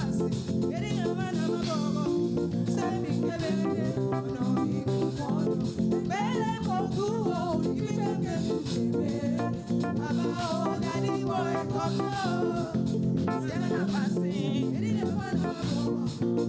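Live church praise band playing upbeat dance music on electric guitar and bass guitar, with singing over it.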